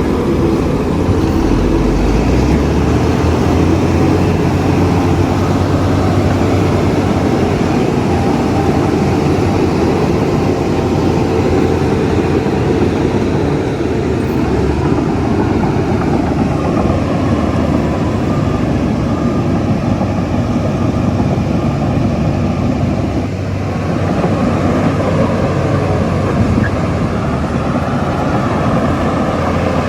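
Shantui bulldozer's diesel engine running steadily as the machine works.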